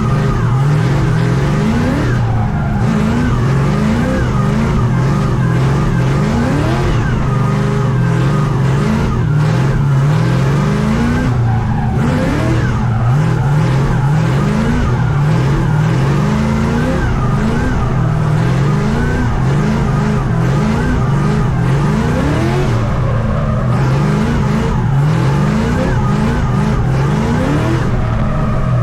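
LS V8 of a BMW E82 drift car revving over and over, its pitch climbing again and again about once a second, with the tyres skidding and squealing as the car is spun through donuts and figure eights to warm the tyres.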